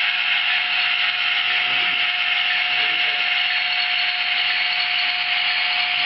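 HO-scale Roco class 132 (ТЭ109) model diesel locomotive running, a steady high whine and hiss with an even tone underneath.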